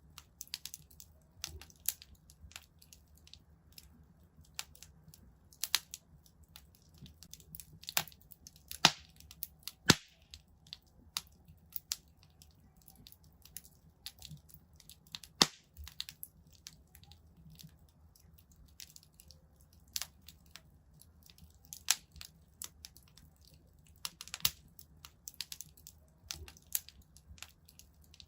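Wood fire crackling in a fireplace: irregular sharp pops and snaps of burning logs over a faint low rumble of the flames, with the loudest cracks about nine, ten and fifteen seconds in.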